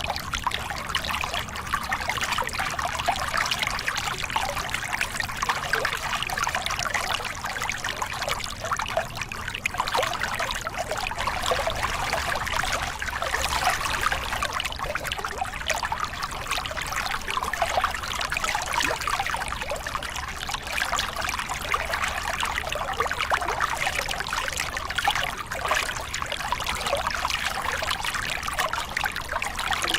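Small river cascade: water spilling and splashing over rocks in a steady, bubbling rush, with a low rumble of flowing water beneath.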